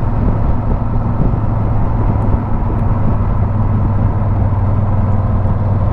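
Motorcycle engine running steadily while riding, heard through a helmet-mounted camera with a steady rush of wind and road noise.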